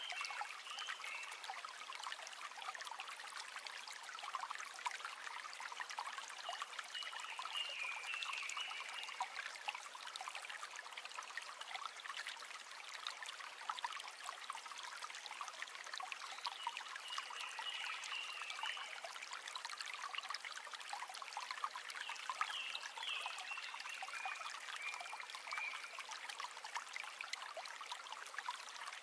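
River water trickling steadily, a dense patter of small splashes and drips.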